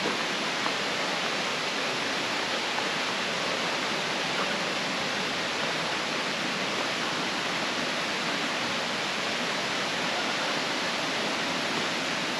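Steady, unbroken rush of flowing water, like a mountain stream.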